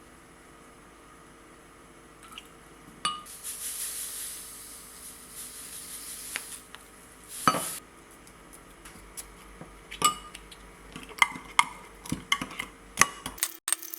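Dishes and kitchen utensils clinking and knocking, with a few seconds of hissing noise about three seconds in and a quick run of sharp clinks near the end.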